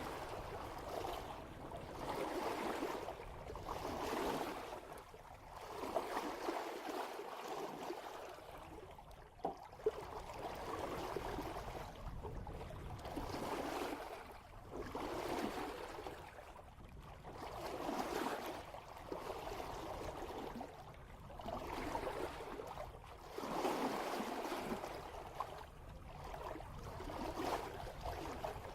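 Water rushing and splashing at the bow of a sailboat moving at about 3 knots, swelling and fading in a steady rhythm of roughly one surge every couple of seconds as the hull meets the swell, with a brief sharper splash now and then.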